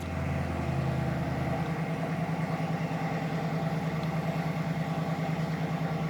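Car engine idling with a steady, even pulse.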